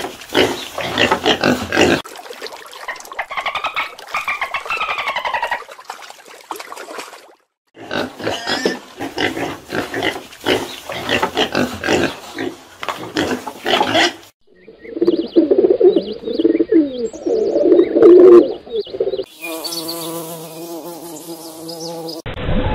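Domestic pigs: a sow grunting and piglets squealing while the litter suckles, in several short clips. A steady buzz follows near the end.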